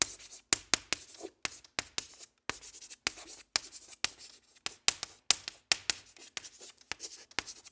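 Writing on paper: quick, irregular scratchy strokes, several a second.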